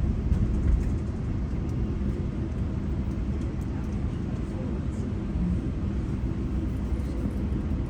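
GO Transit commuter train running between stations: a steady low rumble of wheels on rails and running gear, with faint scattered high ticks.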